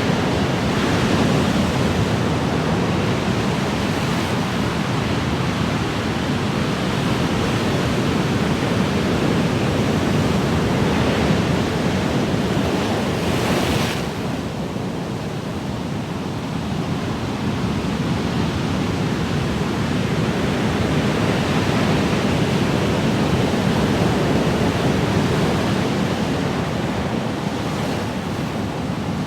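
Ocean surf: a continuous wash of waves with slow swells, one wave surging up about halfway through, after which the sound eases down a little before building again.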